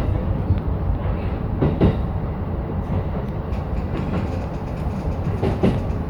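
E233 series electric train running with a steady low rumble, its wheels clacking over rail joints a couple of times.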